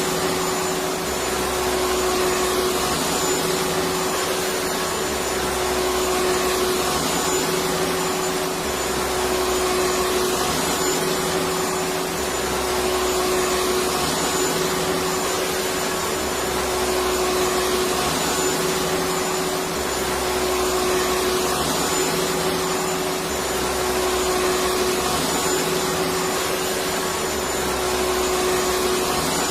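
Electric vacuum cleaner running continuously: a steady rushing whoosh with a constant hum tone and a faint low pulsing that repeats about every two seconds.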